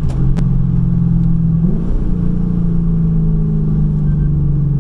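Straight-piped Lexus IS-F V8 exhaust droning at a steady engine speed, with a brief rise and dip in pitch a little under two seconds in. Two sharp clicks come right at the start.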